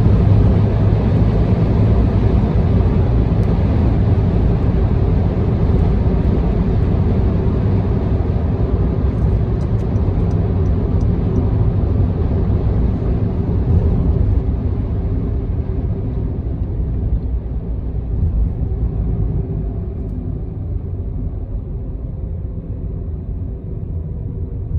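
Car road noise: tyre and engine rumble with a low hum, growing quieter and duller through the second half as the car slows down.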